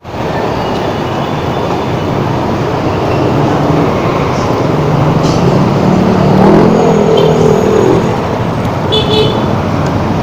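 Road traffic noise that cuts in abruptly, with a vehicle engine rising in pitch and holding through the middle.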